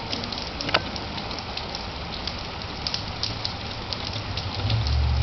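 Rain falling steadily: an even hiss dotted with scattered drop ticks. A low rumble swells near the end.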